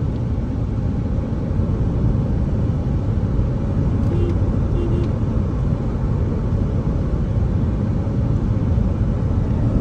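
Steady engine and tyre rumble of a car driving along the road, heard from inside the vehicle. Two short beeps sound about four and five seconds in.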